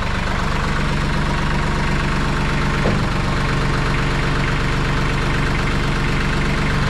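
Tractor engine idling steadily, its note shifting slightly about three seconds in.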